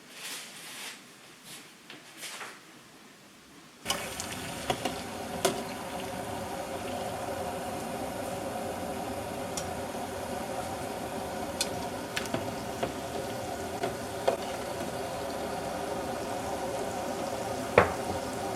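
Faint rustling, then about four seconds in, water starts running steadily and keeps running, with a few light clicks and knocks.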